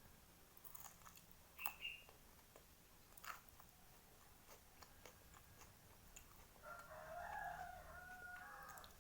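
Faint mouth sounds of chewing, with a few short crisp clicks, then a rooster crowing in the background for about two seconds near the end.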